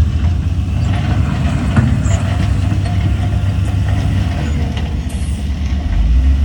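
Heavy diesel engine of earthmoving machinery running steadily with a deep, low rumble.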